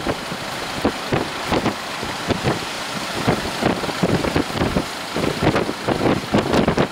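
Storm-force wind buffeting the microphone: a steady rushing noise broken by irregular low thumps from the gusts, which come thickest near the end.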